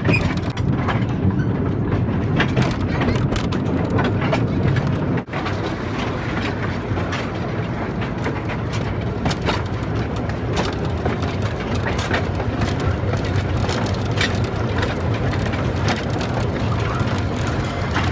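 Small tourist train running along its track, with a steady low rumble and frequent clicks and clacks from the wheels and cars, heard from on board.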